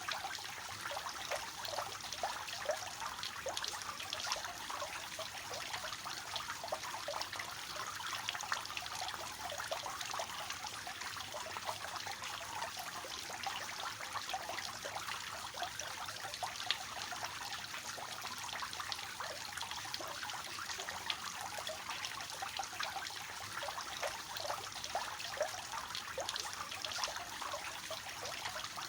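Garden fountain's water spilling steadily down three tiers into its basin, a continuous splashing trickle.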